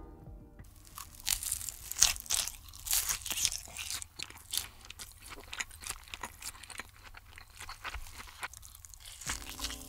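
Close-miked ASMR biting and chewing of a crispy red-crumbed fried cutlet covered in cheese sauce: loud, irregular crunches. The crunches are densest in the first few seconds and thin to steadier chewing later on.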